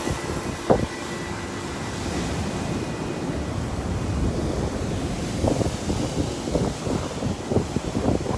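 Heavy storm swell pounding a rocky shore: a steady low rumble of surf, with wind on the microphone and several short thumps in the second half.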